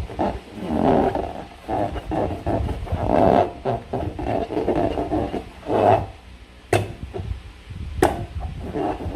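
Hands squishing and rubbing slime in a transparent rubber balloon: irregular wet squishing and rubber-rubbing sounds, with two sharp clicks a little over a second apart near the end.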